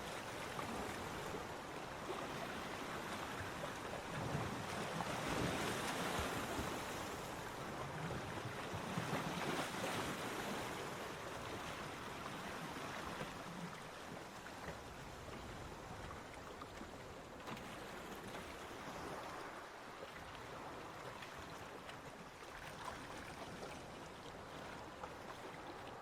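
Ocean surf washing onto a beach: a steady rushing wash that swells twice, about five and about ten seconds in, then settles into a softer wash.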